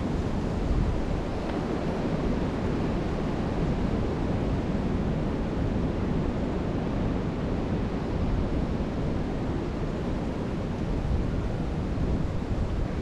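Strong, steady wind blowing across the microphone, a continuous low rumble with a rushing hiss above it.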